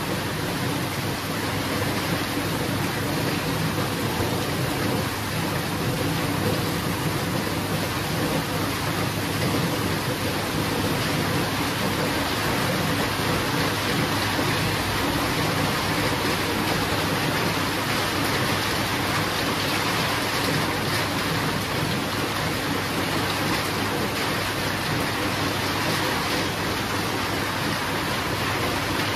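Steady heavy rain falling, an even continuous hiss.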